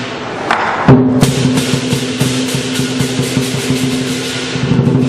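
Chinese lion dance percussion, drum, cymbals and gong, playing live. A loud strike comes about a second in, then a fast even beat of about five or six strikes a second over a steady low ringing.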